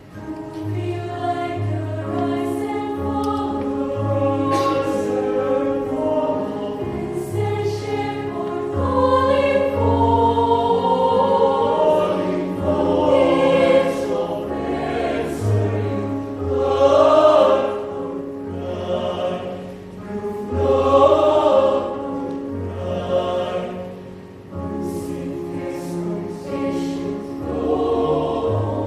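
Youth choir singing a choral piece in several parts, held chords moving under a sung melody. It swells louder through the middle and eases off again near the end.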